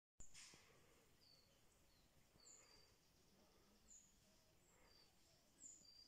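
Very faint outdoor ambience in which small birds give short, high chirps, each falling slightly in pitch, about one a second. A brief click as the sound cuts in just after the start is the loudest moment.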